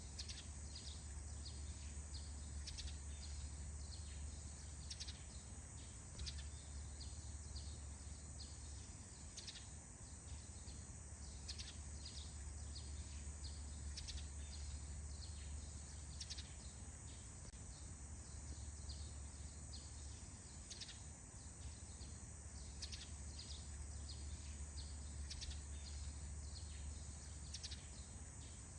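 Songbirds chirping at dawn in a forest: many short, faint chirps scattered irregularly, over a steady high hiss and a steady low rumble.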